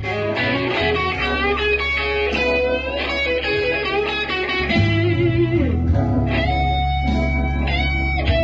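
Electric guitar playing an improvised minor-blues solo, with notes bent upward and held with vibrato, over a slow backing with a steady bass line.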